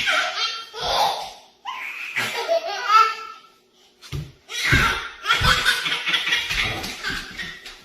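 People laughing hard in several bursts, with a short lull about halfway through.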